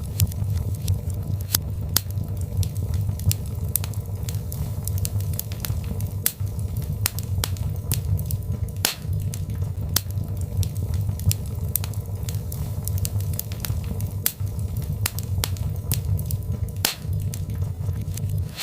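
Birchwood fire burning in a fireplace: a steady low roar of flames with frequent irregular crackles and pops, a couple of them sharper snaps.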